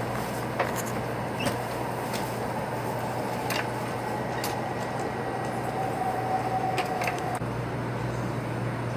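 Steady cabin noise inside a Taiwan High Speed Rail car as the train runs: a low, even hum under a rushing haze, with a few light clicks and knocks.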